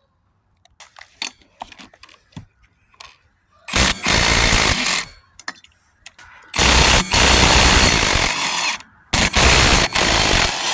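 Cordless impact wrench hammering in three bursts of about one and a half to two and a half seconds each, loosening the 17 mm wheel nuts on an ATV. A few light clicks and knocks come before the first burst.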